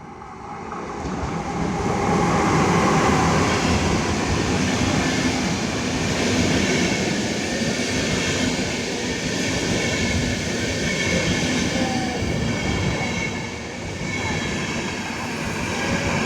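Train hauled by an electric locomotive, taken by sight for a Siemens Vectron, passing close by: wheels on rail rise to a loud, steady rumble over the first two seconds and hold there, with faint high tones running through it.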